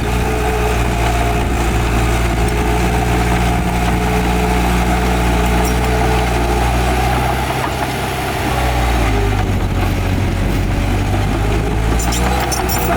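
Heavy diesel engine of earthmoving machinery running steadily, its pitch dropping for a moment about halfway through before picking up again. A light clatter comes near the end.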